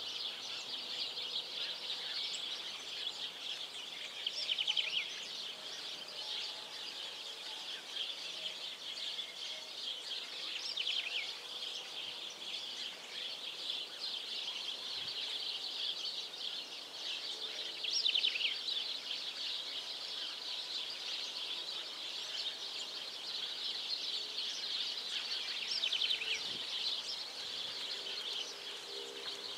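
Outdoor chorus of small birds chirping, dense and steady and high-pitched, with a few louder clusters of quick trilled calls every several seconds.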